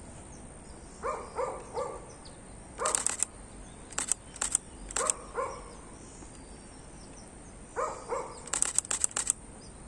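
Camera shutter clicking in several quick bursts as photos are fired off. Between them a dog barks a few short times in the background.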